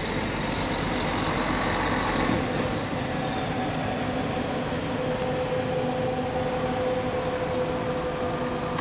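Bus diesel engines running at low revs, a steady drone with a held tone. A deeper rumble drops away about two seconds in.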